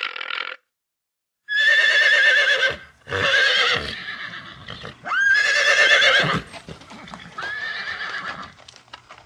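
Horse neighing: four whinnies with a shaky, wavering pitch, each about a second long, starting about a second and a half in after a short cut-off sound and a moment of silence.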